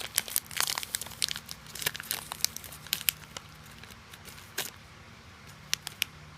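A granola bar's plastic wrapper being torn and crinkled open: dense crackling for the first three seconds or so, then a few separate crackles.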